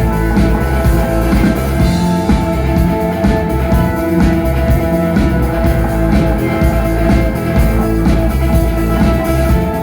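Rock music without vocals: electric guitar over a drum kit, with steady held chords and a driving beat.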